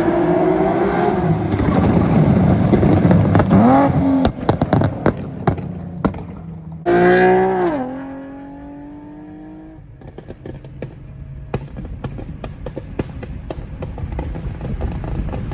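Nissan 370Z's 3.7-litre V6 through a full ISR exhaust (long-tube headers, Y-pipe, catback) revving hard, then lifting off into a string of sharp exhaust pops and crackles. About seven seconds in a second loud burst of revs drops in pitch and dies away, followed by quieter scattered popping.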